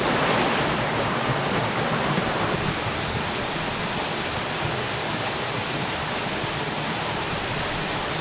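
Steady rush of falling water from a waterfall into a rock pool.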